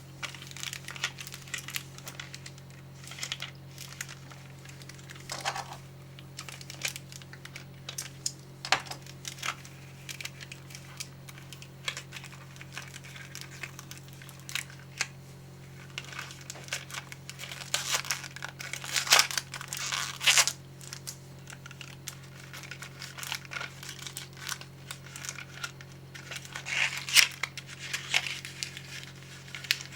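Snack packaging crinkling and tearing as it is handled and opened, in irregular crackles, with louder bursts about two-thirds of the way through and again near the end.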